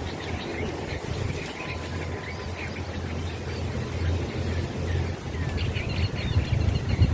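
Pond-side outdoor ambience: wind rumbling on the microphone, with scattered birds chirping. A thin, rapid, high-pitched ticking runs for about three seconds in the middle.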